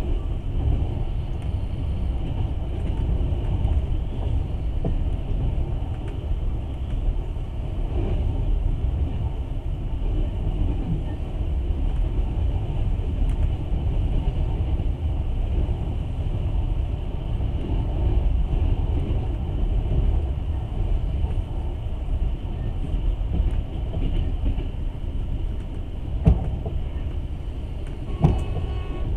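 A moving passenger train heard from inside the carriage: a steady low rumble, with a couple of short knocks near the end.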